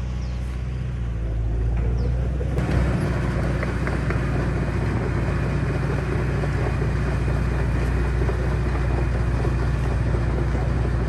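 Heavy diesel construction machinery running steadily, growing louder and fuller about two and a half seconds in as it works harder.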